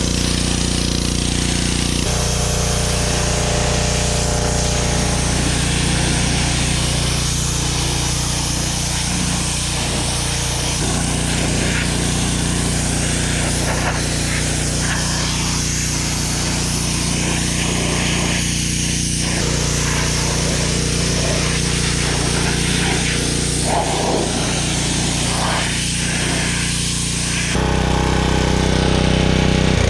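Small gasoline pressure washer running steadily, its engine note mixed with the hiss of the water spray. Near the end the engine is shut off and winds down.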